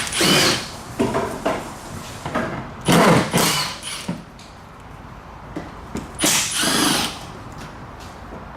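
A handheld power tool run in three short bursts with a whine that rises and falls in pitch, with small clicks and knocks in between.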